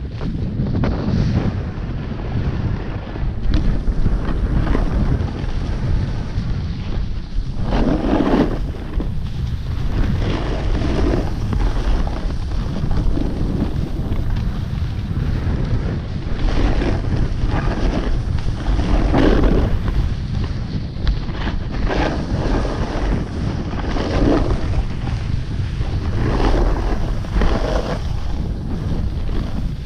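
Wind buffeting the microphone during a downhill run on snow. A rushing scrape swells every two to three seconds, typical of edges biting into the snow on each turn.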